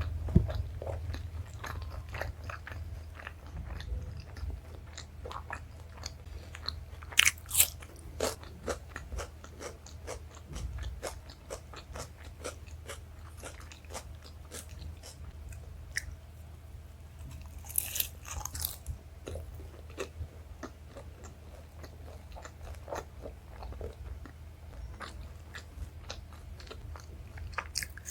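Close-miked chewing of chole bhature (fried bread with chickpea curry) and rice, with many small wet mouth clicks and a few louder bites about 7 and 18 seconds in.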